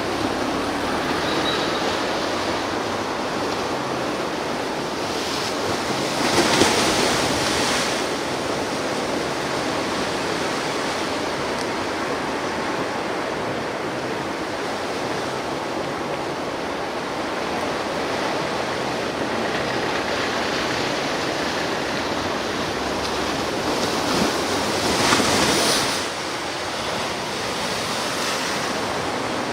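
Sea surf washing onto the shore in a steady wash, with two waves breaking more loudly, one about six seconds in and one near the end.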